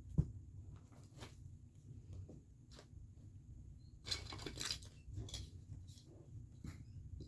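Small household clutter being handled and set down by hand: scattered light knocks and clicks, with a burst of rustling about four seconds in.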